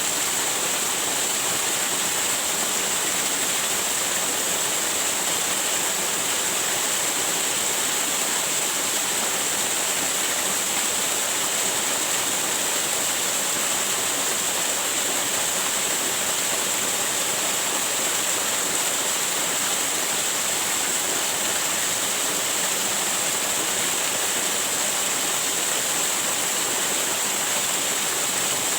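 Waterfall: a steady, unbroken rush of falling water with a bright hiss on top, unchanging throughout.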